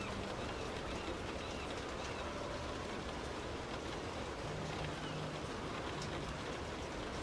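Heavy rain and a car's wet-road noise while driving: a steady hiss of rain and tyres, with a faint low hum joining about halfway through.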